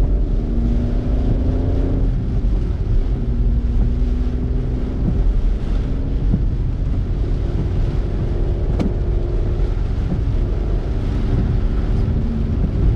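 Road noise inside a moving car's cabin: a deep, steady rumble of engine and tyres with wind buffeting through an open window, and a faint hum that shifts in pitch. One sharp click about nine seconds in.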